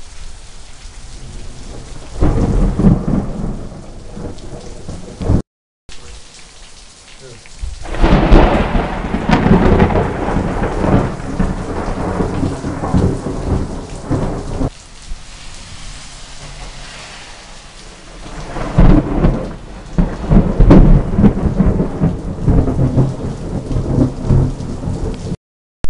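Thunder from a high-precipitation supercell: three long, loud peals starting about two, eight and nineteen seconds in, each rolling on for several seconds, over steady rain.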